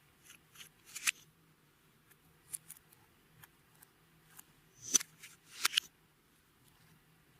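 Clear slime being worked by hand, giving scattered sharp sticky clicks and pops, with the loudest clusters about a second in and about five seconds in.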